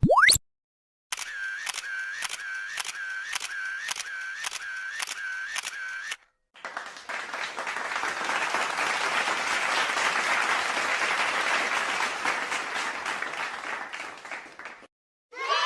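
A run of stock comedy sound effects: a quick rising tone, then a series of sharp clicks about twice a second over a warbling tone, then applause for about eight seconds that fades near the end.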